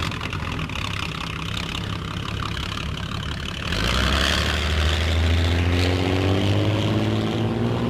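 Engine of the racing motorboat Miss Britain I running. About four seconds in it gets louder and its pitch climbs as it revs up.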